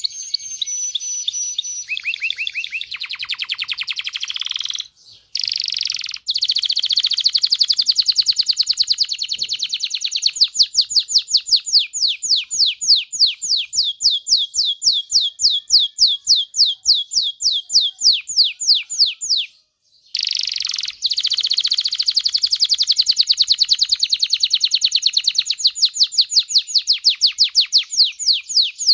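Domestic canary singing long, rapid trills of quickly repeated notes, switching from one trill to the next, with brief pauses about 5 and 20 seconds in.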